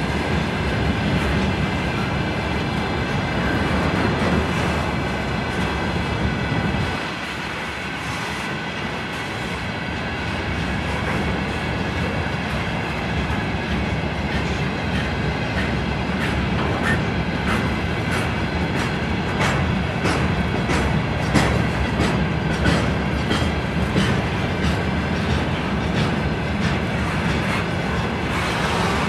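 Freight train hauled by a 2TE116 diesel locomotive rolling past: a steady heavy rumble of loaded wagons, with the wheels clicking over the rail joints in an even rhythm that grows sharper and denser in the second half.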